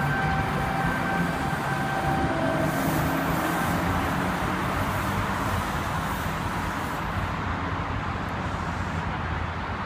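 V-set double-deck electric train running past the platform: a steady rumble of wheels on rails, slowly fading. A high steady tone ends about two and a half seconds in.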